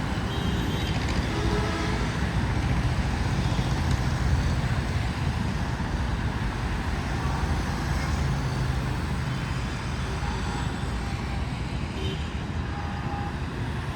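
Steady rumble of city road traffic: car, motorbike and truck engines and tyre noise, with a few faint short horn beeps.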